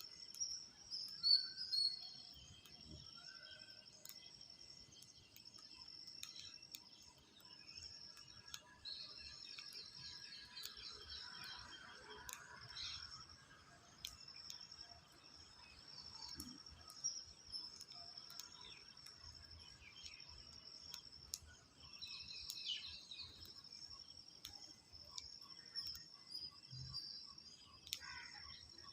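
Faint outdoor ambience: birds chirping over a steady high-pitched drone, with scattered small clicks.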